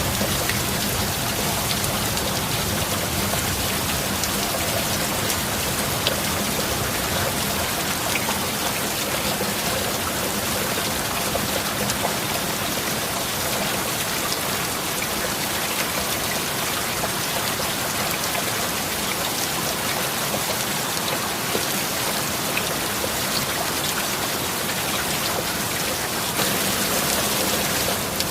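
Heavy rain falling steadily, with scattered individual drops ticking on a surface, over a faint steady low tone.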